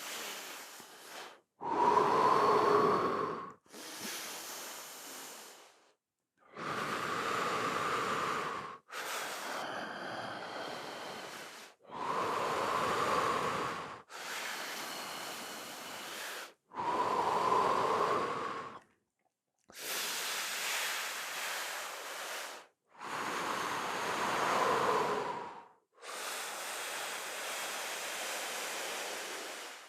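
A person breathing deeply and audibly, full slow inhales and exhales alternating in an even rhythm, each breath lasting about two to three seconds.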